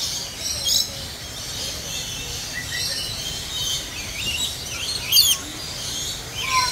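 Several birds chirping and calling in short, high, overlapping notes over a steady low background rumble.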